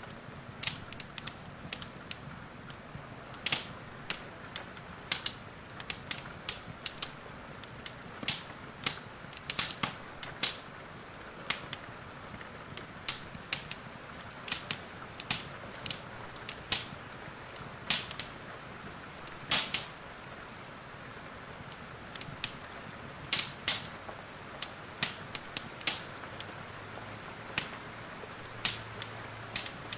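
Fireplace wood fire crackling, with irregular sharp pops several times a second at some moments and sparser at others, over a steady hiss of rain.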